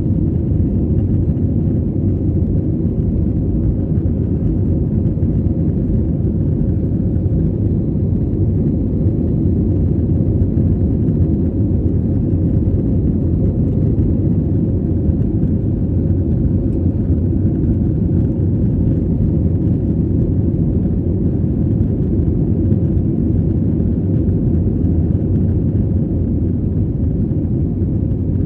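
Steady low rumble of a jet airliner during takeoff and climb, the engines and airflow heard from inside the passenger cabin.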